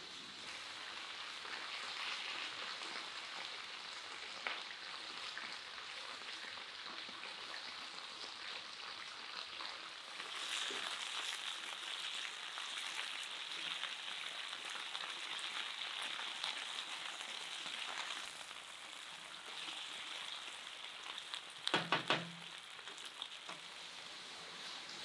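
Crinkle-cut potatoes sizzling as they fry in a pan while a wooden spatula stirs them. The hiss is steady and grows louder about ten seconds in. Near the end comes a quick run of sharp knocks.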